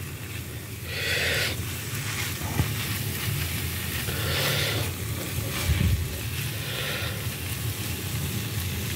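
Instant ramen noodles and chicken sizzling on a hot flat-top griddle as they are stirred and turned with a plastic spatula, the hiss swelling a few times as the noodles are moved.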